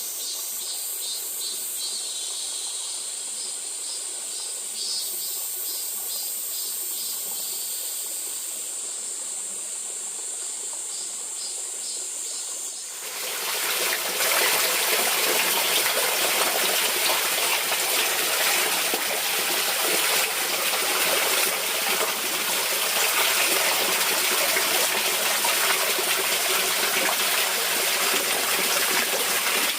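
For about the first thirteen seconds there is a steady high-pitched hiss with a fast, even pulsing. Then it changes suddenly to the louder, steady rush of a mountain stream or waterfall pouring over rock.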